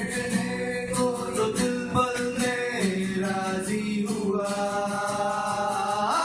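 Live band music: guitar with a male voice holding long, gliding melodic notes.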